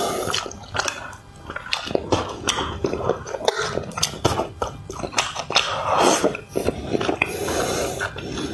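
Close-miked chewing of spicy braised fish: a dense run of short wet mouth clicks and smacks as the fish is chewed and sucked off the bones.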